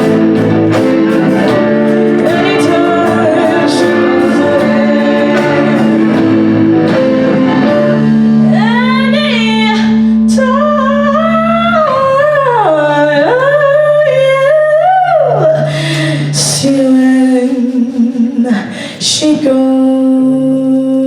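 Live band playing with singing: sustained chords under a vocal line that bends and slides widely in pitch through the middle. The backing thins out and breaks briefly near the end before a held chord returns.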